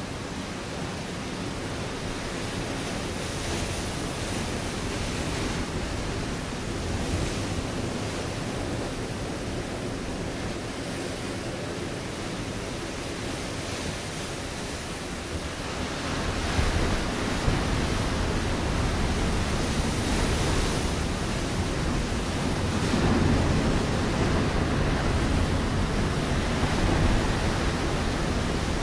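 Ocean waves crashing onto a rocky shore, a continuous rush of surf. It grows louder and heavier about halfway through, with swells as successive waves break.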